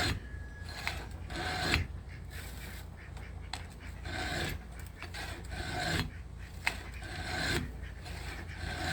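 Steel chainsaw file sharpener rasping across a cutter tooth of a Husqvarna Rancher saw chain, about five strokes, each a second or so long with short pauses between.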